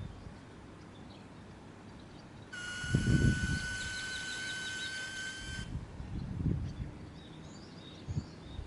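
A steady, high-pitched whine with overtones from around the fuel tank cap of a Kawasaki Ninja ZX-6R, starting suddenly about two and a half seconds in and cutting off about three seconds later. It is the intermittent 'kyuuu' noise that comes and goes, whose cause the owner does not know.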